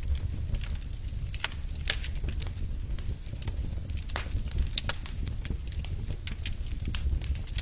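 Wood fire in a fireplace crackling, with frequent sharp, irregular pops and snaps over a low, steady rumble.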